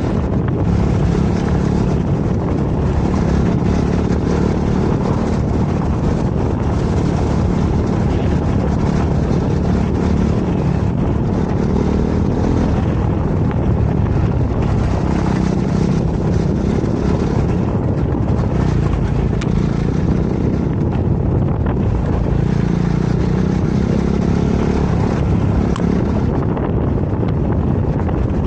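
KTM 390 Adventure's single-cylinder engine running steadily as the bike rides along a dirt trail, mixed with wind noise on the camera microphone.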